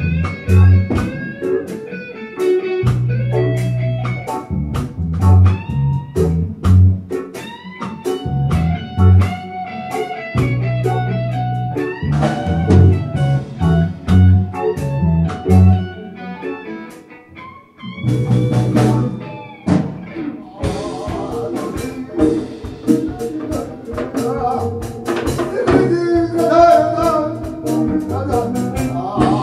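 Live fusion band music of Korean traditional instruments with electric bass, drum kit, guitar and keyboard. The bass line and drums carry the first part, the band drops away briefly about 18 seconds in, then comes back with a fast, busy drum pattern.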